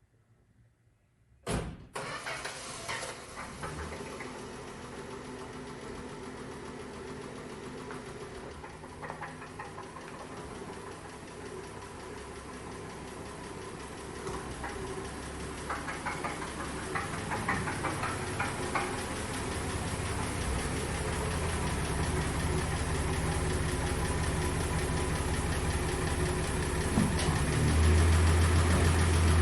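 A 1963 Dodge Polara's slant-six engine comes on suddenly about a second and a half in and runs, getting steadily louder and revving harder near the end. The engine has a bottom-end knock that the owner suspects is a spun rod bearing.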